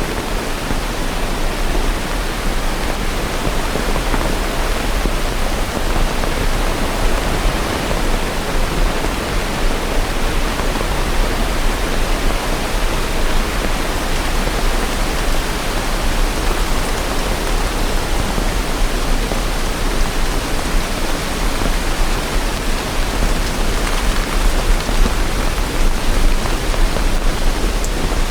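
Steady rain: a dense, even hiss with no separate drops or thunder, over a steady low rumble.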